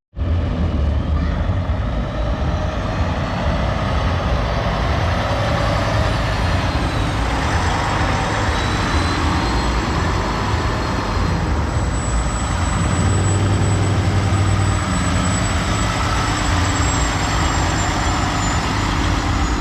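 Heavy diesel truck engine running steadily close by, a low rumble with a faint high whine above it.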